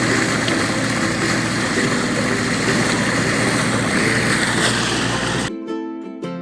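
Engine of a small crab-net fishing boat running steadily under way, mixed with wind and water noise; it cuts off abruptly about five seconds in, where ukulele music starts.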